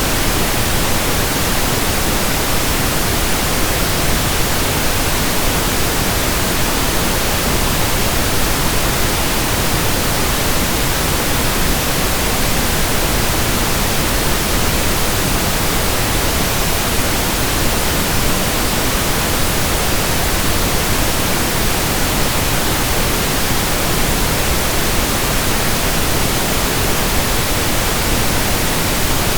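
Steady pink noise: an even, unchanging hiss spread across all pitches, generated as a sleep sound.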